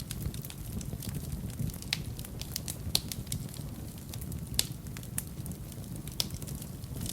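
Wood fire burning in a fireplace: irregular crackles and sharp pops over a steady low rumble of the flames, with a few louder pops scattered through.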